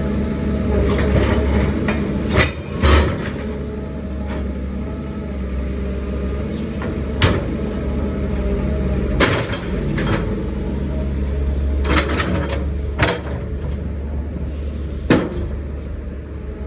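Komatsu PC200-8 hydraulic excavator working: its diesel engine runs steadily under a low hum, broken by sharp metallic clanks and knocks at irregular intervals, about seven in all.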